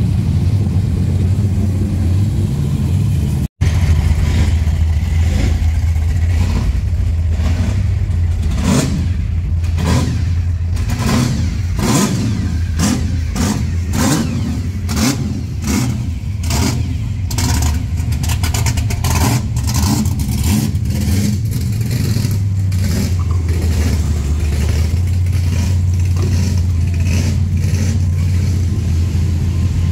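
Supercharged V8 cruise cars running slowly past with a steady deep engine rumble. Through the middle stretch comes a quick run of sharp rev blips and exhaust cracks, several a second.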